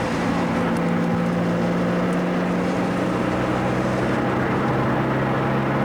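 Car engine running at steady revs while cruising, with road noise, heard from inside the cabin.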